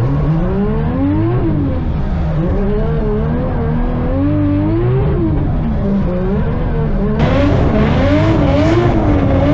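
Drift car engine revving up and down over and over as the driver works the throttle, with tyre noise under it. About seven seconds in, the sound turns suddenly louder and harsher.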